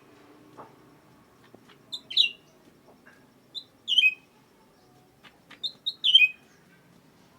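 A cucak ranting songbird singing short phrases of two or three clear whistled notes that fall in pitch, repeated about every two seconds.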